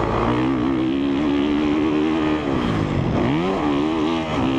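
Honda CRF450R's single-cylinder four-stroke engine running under throttle while the dirt bike is ridden round a motocross track. The revs fall and climb back about two and a half seconds in, and dip briefly again near the end.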